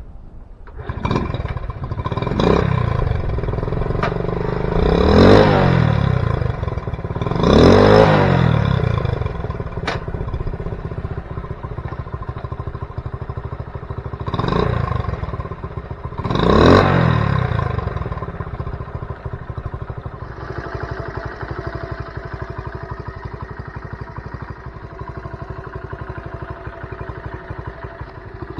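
Honda CT70 Trail 70's small single-cylinder four-stroke engine running, its revs rising and falling several times before it settles into a steady lower note for the last several seconds.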